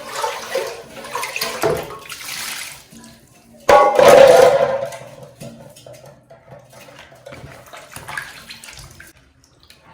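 Water running and splashing, with a sudden louder gush about four seconds in that fades over a second or so.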